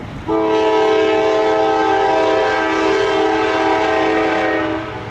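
Diesel locomotive's multi-chime air horn sounding one long blast of about four and a half seconds, a steady chord that starts and stops abruptly, over the rumble of a passing train.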